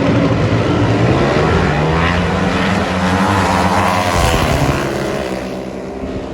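Pro Stock drag motorcycles at full throttle running down the strip, the engine note climbing in steps through the gear changes, then fading away near the end.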